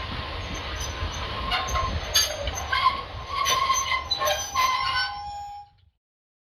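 Railway train running on the track: a low rumble with squealing wheels and several short metallic clanks, cutting off abruptly near the end.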